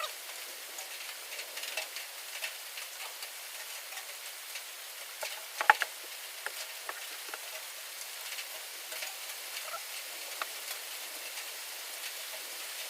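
Steady rain falling, an even hiss with scattered drop ticks and a quick cluster of louder clicks about halfway through.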